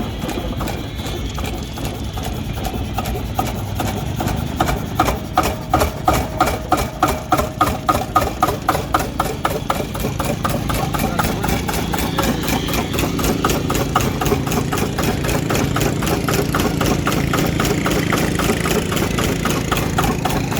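Old 25 HP single-cylinder four-stroke stationary engine running slowly at about 300 rpm, just putting, with an even beat of about two to three firing strokes a second. The beats stand out most strongly between about four and ten seconds in, then the running goes on steadier and a little louder.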